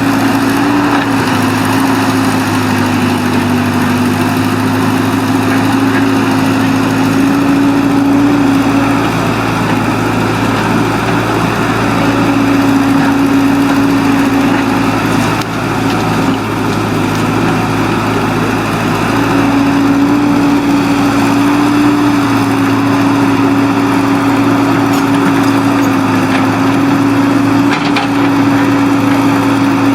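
Excavator engine running steadily under work, with a steady whine that drops out for a few seconds twice and then returns.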